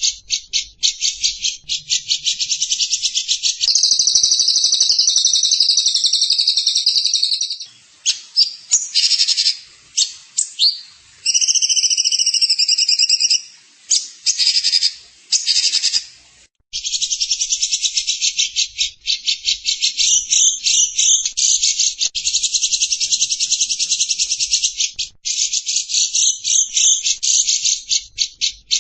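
Songbird used as a training 'master' recording, singing a fast, harsh, buzzing chatter of rapid clicking pulses. The chatter breaks into shorter bursts partway through, pauses briefly a little past halfway, then resumes.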